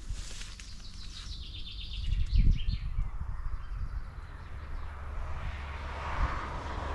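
Outdoor ambience with a small bird singing a brief trill of quick chirps in the first two seconds, over low rumbling noise with a few dull thuds. A broad hiss swells near the end.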